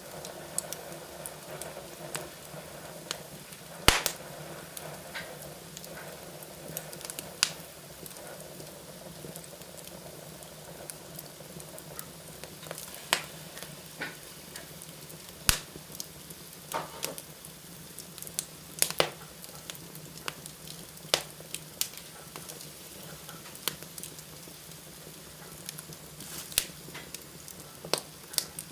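Wood fire burning in a fireplace: a steady low hiss with irregular sharp crackles and pops every second or two, a few of them louder.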